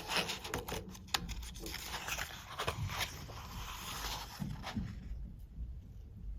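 Paper pages of a picture book rustling and scraping as they are handled and turned, with many small clicks, dying down about five seconds in.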